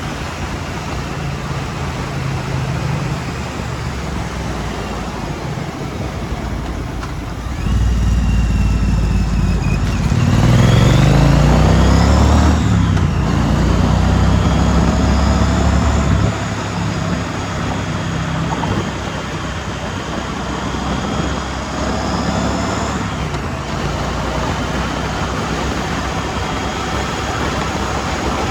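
2016 Triumph Street Twin's 900 cc parallel-twin engine running on the move, under wind noise. It gets louder about eight seconds in, and revs rise under acceleration until a sharp drop at a gear change a couple of seconds later. A smaller rise and shift comes near the end.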